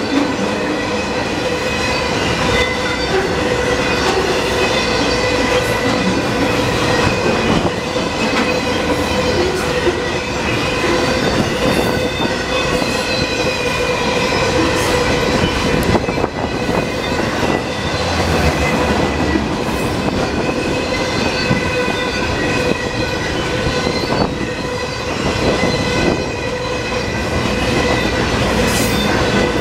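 Freight cars of a passing intermodal train, platform cars loaded with highway trailers, rolling steadily by: a loud, even rumble and clatter of steel wheels over the rail joints, with a steady high squeal from the wheels riding over it.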